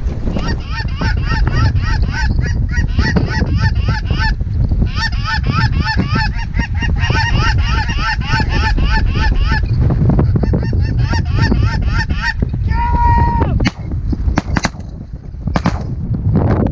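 Rapid, evenly spaced goose clucks and honks, about four a second, with a short break, then one long drawn honk. Near the end a quick volley of shotgun blasts follows, all over heavy wind rumble on the microphone.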